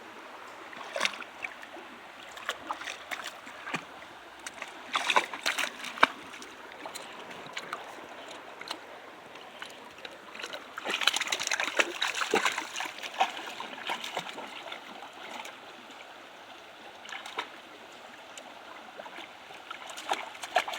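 A brook running over rocks, a steady rushing of water, with scattered knocks and splashes. The water is loudest about eleven to thirteen seconds in.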